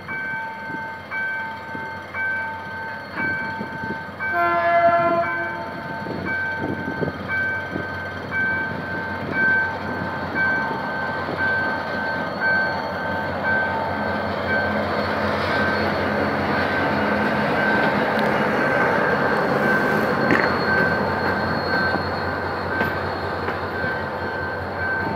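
Level-crossing warning signal sounding in a steady, evenly repeating pulse while a GM GT-22CW diesel locomotive hauling a passenger train approaches. About four to five seconds in the locomotive gives one short horn blast, the loudest moment. From about the middle on, the diesel engine and the train's wheels on the rails grow louder as the train passes over the crossing.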